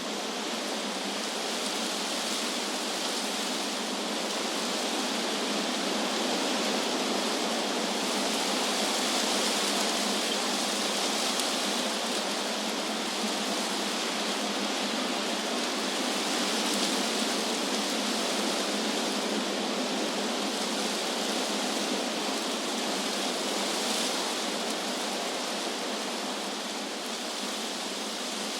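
Wind rushing through tree leaves: a steady, even hiss that swells and eases only slightly.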